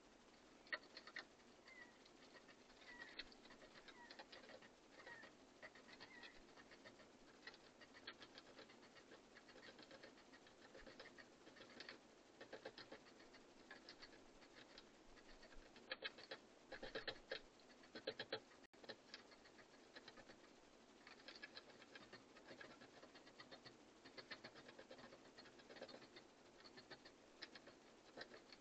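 Faint, irregular pecking and scratching of birds feeding at a bird feeder, many small clicks and taps, with a few faint high chirps.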